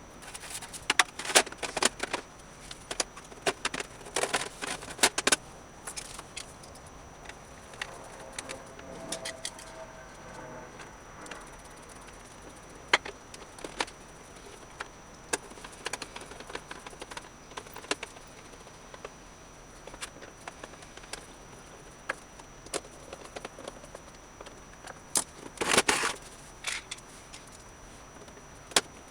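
Small hand-work noises on the amplifier: scattered sharp clicks and light clatter of small hard parts being handled, bunched in the first few seconds and again about twenty-five seconds in, with quieter spells between.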